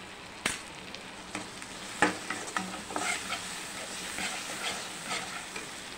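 Onions and tomatoes sizzling steadily as they fry in oil in a nonstick kadai, stirred with a steel ladle that scrapes and knocks against the pan. The loudest knock comes about two seconds in.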